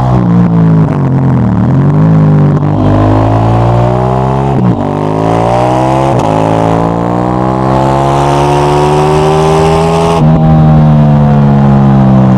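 KTM 890 Duke GP's 889 cc parallel-twin engine through a Dominator HP8 slip-on exhaust. It slows, then pulls hard through the gears, with quick quickshifter upshifts cutting the pitch twice. The throttle closes about ten seconds in, and the engine runs on at lower revs.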